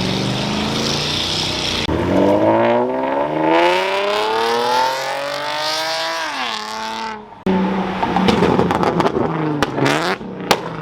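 Car engine with no exhaust fitted, loud and open, revving and accelerating: the pitch climbs steadily over about four seconds, then drops. After a short break it revs unevenly again, with several sharp cracks near the end.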